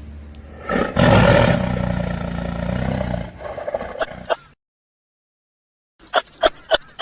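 A large animal gives one long, loud, low call lasting a couple of seconds. After a short gap of silence, a dog starts barking in quick, sharp barks near the end.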